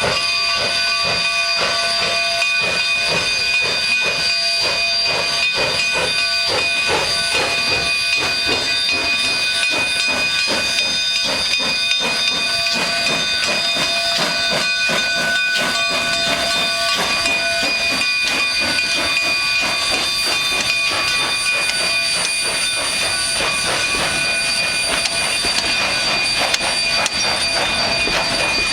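Steam locomotive hissing steam steadily, with several steady high tones in the hiss and rhythmic exhaust chuffs that fade out past the middle.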